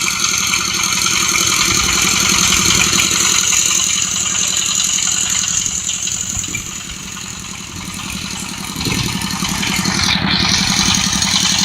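HANJIN well-drilling rig running: a loud steady engine drone with a rattling clatter and a strong hiss over it. The sound eases off in the middle, then builds again about nine seconds in.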